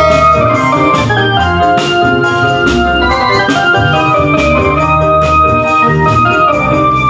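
Obrog barongan music: an electronic keyboard playing a loud organ-like melody over a bass line, with drum strokes about once a second.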